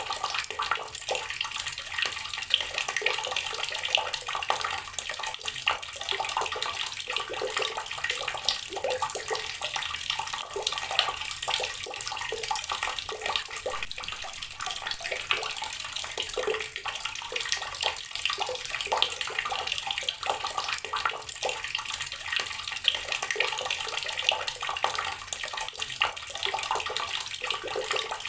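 Water running from a tap and splashing onto rocks, a steady pouring and splashing with many small spatters.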